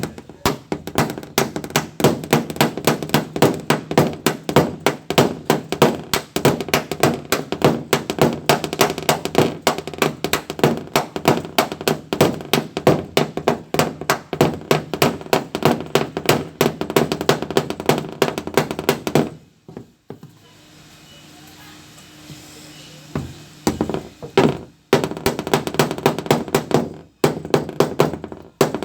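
Fast, even hammering on the steel side panel of a Mitsubishi L300 van, about five ringing blows a second, as the panel is beaten into shape. The hammering stops for several seconds, with only a few single knocks, about two-thirds of the way through, then starts again.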